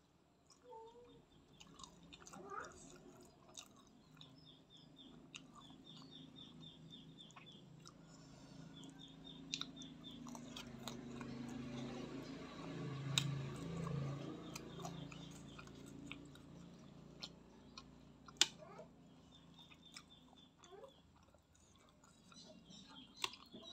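Close-miked chewing and mouth sounds of someone eating fried instant noodles and fried chicken, with scattered sharp clicks. A low drone swells and fades in the middle.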